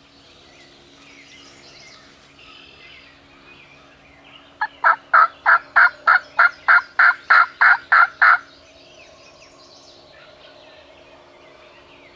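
A hunter's turkey call giving a run of about a dozen hen yelps, evenly paced at three or four a second and loud and close, starting about four and a half seconds in and lasting almost four seconds. The calling is meant to draw a gobbler in.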